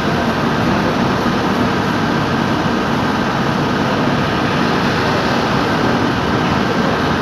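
Loaded oil-tanker freight train running past, a steady loud rumble with a faint steady whine over it.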